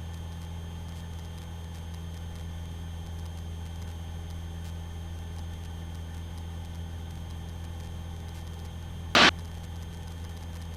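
Aerobatic light aircraft's engine heard in the cockpit as a steady low drone with hiss. There is one short burst of noise about nine seconds in.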